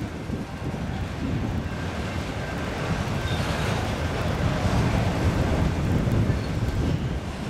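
Freight train rolling past, a steady low rumble of wheels on rail, with wind buffeting the microphone.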